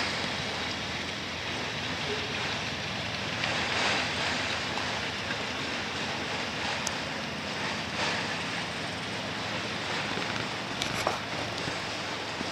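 Autorack freight cars of a passing train rolling across a concrete overpass: a steady rumble of steel wheels on the rails, with a couple of sharp clicks.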